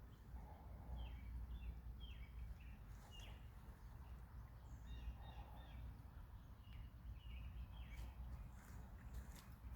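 Small birds giving short, repeated chirps over a steady low rumble, with a few sharp clicks near the end.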